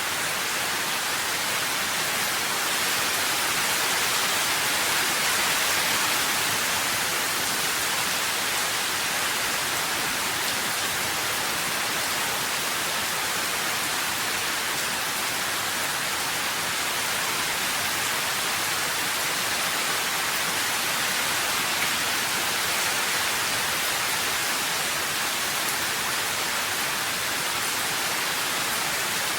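Steady rain, an even hiss with no separate drops standing out, swelling slightly a few seconds in.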